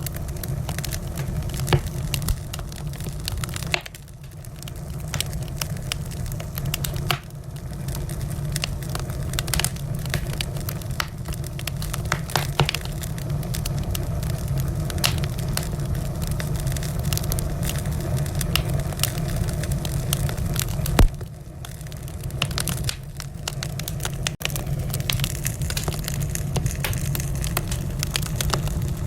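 Wood fire burning in a fireplace: a steady low rumble of flames with frequent sharp crackles and pops, one louder pop about two-thirds of the way through.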